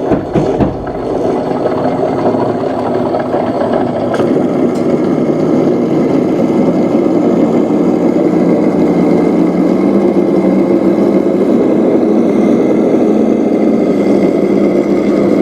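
Steady engine-like running of RC model construction vehicles, a continuous drone with a few clicks in the first second.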